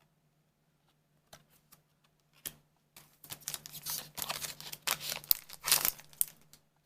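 Foil trading-card booster pack being torn open and crinkled: a few light clicks at first, then a run of crackling and tearing from about three seconds in that dies away near the end.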